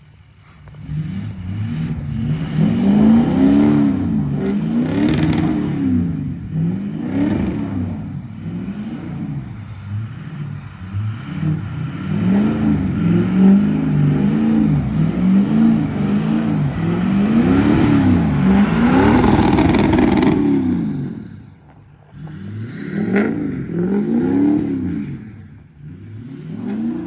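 Diesel pickup truck's engine revving up and falling back over and over, about every second or two, as it is driven hard on snow. It drops away briefly twice near the end.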